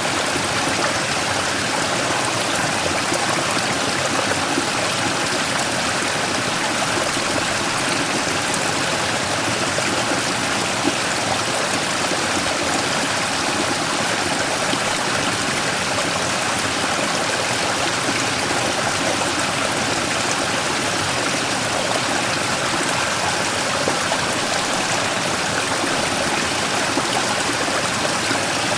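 Mountain stream pouring over and around a large rock in a small waterfall, a steady rush of flowing water with splashing and gurgling.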